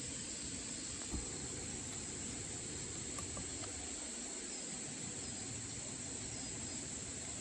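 Steady high insect drone, crickets or cicadas, over an even rush of stream water, with a faint click about a second in.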